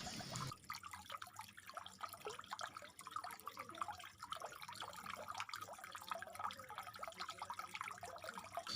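Faint trickling water with scattered small drips and ticks.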